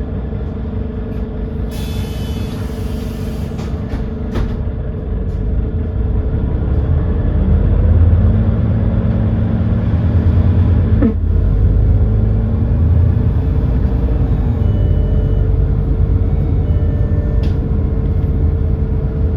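Edison Motors Smart 110G bus's GX12P natural-gas engine running, heard from inside the passenger cabin; its low rumble grows louder about seven seconds in and stays up. A brief hiss about two seconds in and a single sharp click about eleven seconds in.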